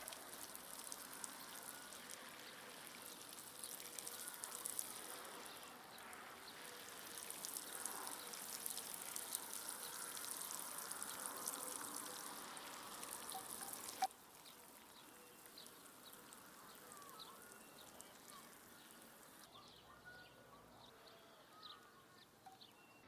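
Water splashing and trickling with a fine crackle, cutting off suddenly about fourteen seconds in; after that a quieter outdoor background with short bird chirps.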